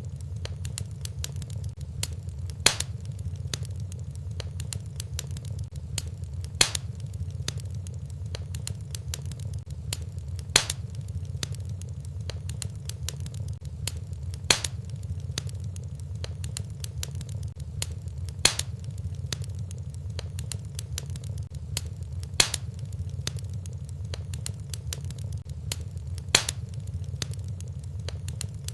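Wood fire in a fireplace crackling over a steady low rumble, with a sharper pop at even intervals about every four seconds, the mark of a short repeating loop.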